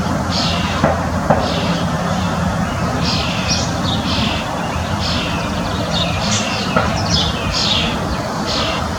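Birds singing in a series of short chirps that sweep downward, repeating every half second to a second, over a steady low hum.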